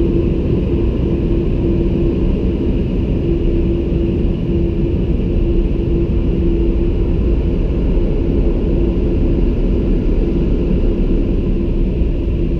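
Automatic car wash machinery running with a steady low roar and a constant hum.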